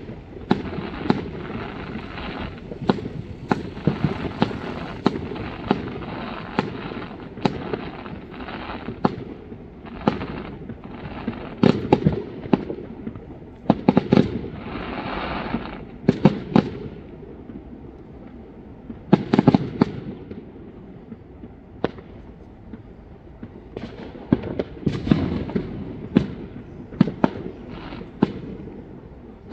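Fireworks exploding all around: dozens of sharp bangs, some in rapid clusters, over a continuous crackle and rumble of more distant fireworks. The bangs ease off for a few seconds about two-thirds of the way through, then pick up again.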